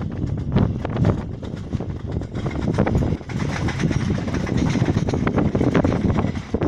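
Diesel-hauled passenger train running past along the track at a distance, a steady rumble of locomotive and coaches.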